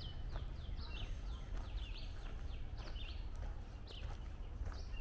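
Songbirds calling, with many short high notes that slur downward, several a second, over footsteps on a trail and a steady low rumble.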